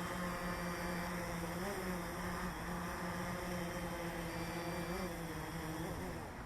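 DJI Phantom 3 Advanced quadcopter's motors and propellers hovering with a steady buzzing hum, its pitch rising briefly a few times as the motors adjust.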